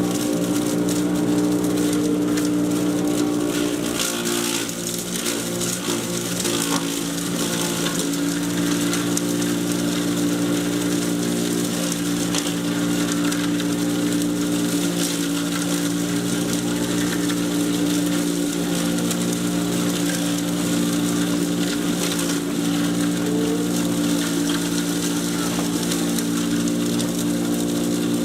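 Patriot 1.5-HP electric chipper shredder running steadily with a constant motor hum and hiss. About four to six seconds in, the level dips briefly and there are a few scattered clicks.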